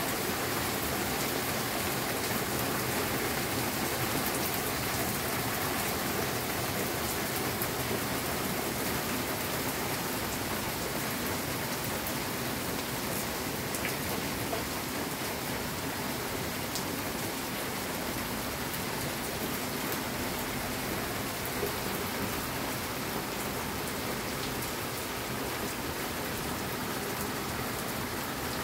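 Heavy rain pouring down in a hard downpour, a steady dense hiss with scattered sharper drop ticks.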